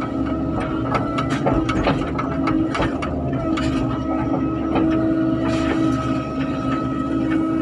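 Excavator at work digging, its engine running with a steady tone under repeated metallic clanks and knocks.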